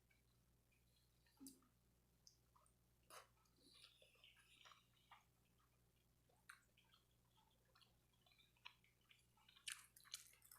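Faint chewing with small wet clicks and smacks of a person eating, the loudest near the end, over a low steady hum.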